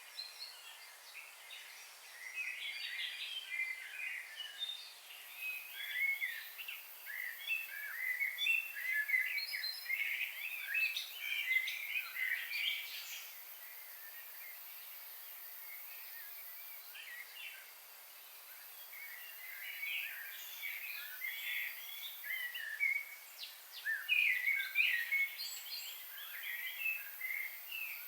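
Several songbirds chirping and singing at once, a busy chorus of short, high calls that thins out for a few seconds midway and picks up again.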